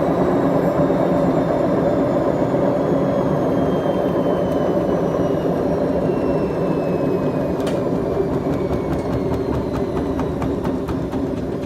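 Beko washing machine drum spinning on worn drum bearings: a loud, dense rumble with a faint whine sliding down in pitch as the spin slowly winds down and gets quieter. From about eight seconds in a fast, regular ticking rattle joins it.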